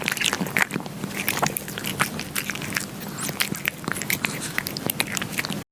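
A kitten chewing and biting, with many quick, irregular crunching clicks throughout.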